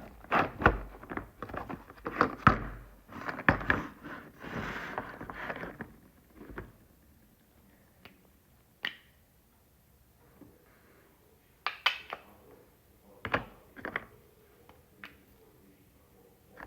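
Plastic toy eggs being handled: a busy run of knocks, clicks and rattles for about the first six seconds, then scattered single clicks and taps.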